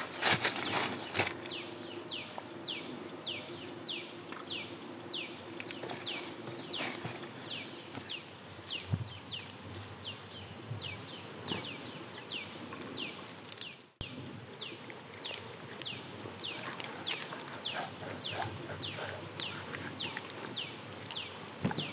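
A bird calling with short, high chirps that slide downward, repeated about twice a second, with a brief break about halfway through. A few knocks sound at the very start.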